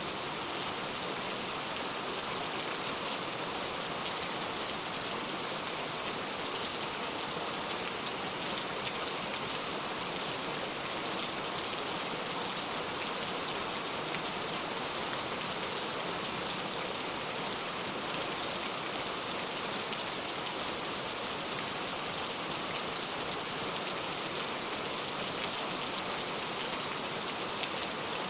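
Steady rain falling on the ground, an even hiss with faint scattered drop patter.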